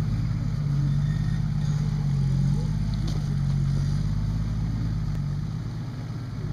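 Engine of a lifted off-road 4x4 running at low revs as it drives through mud and slush, its pitch rising and falling slightly with the throttle.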